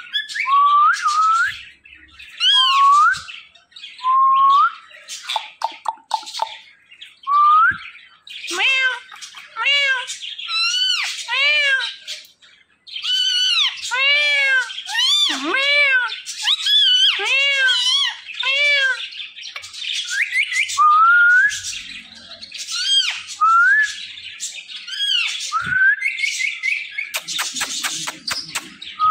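Parrot calling: short rising whistled notes, with a long run of repeated arched squawks in the middle, and a quick rattle of clicks near the end.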